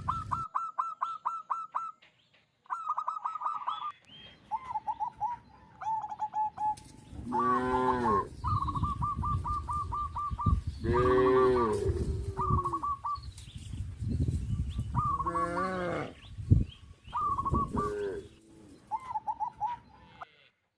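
Cattle mooing about four times, the loudest call near the middle. Between and under the moos, birds chirp in quick repeated runs, and there is one sharp knock about three-quarters of the way through.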